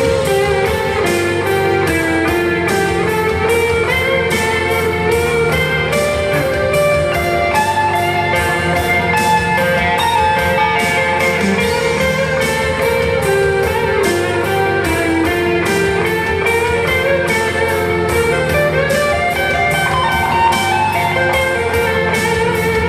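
Live band music led by electric guitar, with sustained notes over a steady beat.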